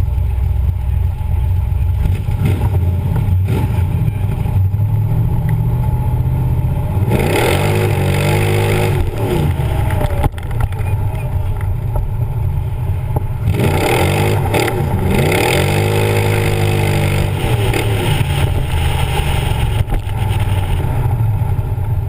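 DAX 427 Cobra replica's engine idling, then revved up and let fall back to idle twice, about seven and thirteen seconds in.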